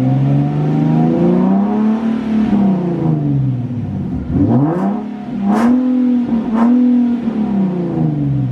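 Nissan 370Z Nismo's 3.7-litre VQ V6 revved in place with the muffler removed, giving a raspy note. The revs are held up for the first few seconds and fall off. About four and a half seconds in they rise sharply again and sit flat at a ceiling, with a few sharp cracks, before dropping near the end; the owner puts this down to a rev limiter.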